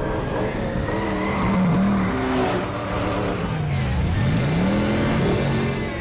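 Film car-chase sound effects: car engines revving at high speed, one engine note dropping sharply and climbing again about four seconds in.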